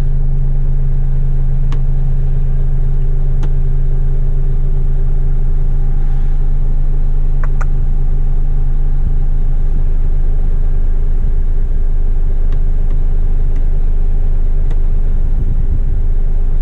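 Heavy rigid truck's diesel engine droning steadily as heard inside the cab while driving, with a few faint clicks.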